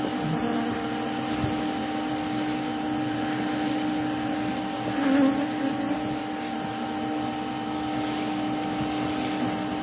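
A steady machine hum, like a vacuum motor, with honeybees buzzing from an opened colony in a wall.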